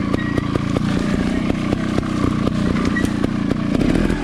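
Trials dirt bike's engine running at low revs with an even, rapid pulse as the bike rolls down a drop.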